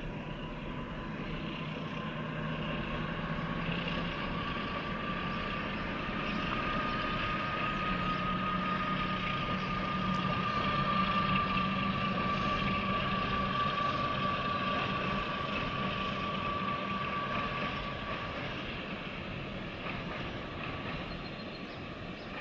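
Diesel train going by: a low engine drone and a steady high whine that swell to loudest about halfway through, then fade, the whine dropping out near the end.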